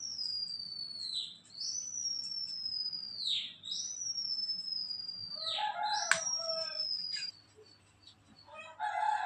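A bird calling a long, high whistle that slides slowly down and then drops sharply at its end, four times at even spacing. Over the last whistle and again near the end, a rooster gives short, rough crows.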